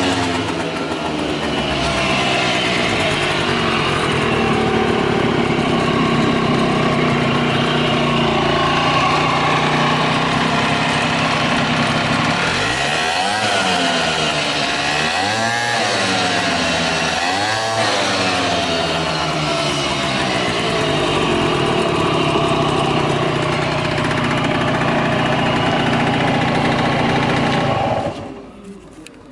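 Early Honda DJ1-R scooter's 50cc two-stroke engine settling to idle, blipped up and back down three times about halfway through, then switched off near the end. It runs without unusual noises, as the seller says.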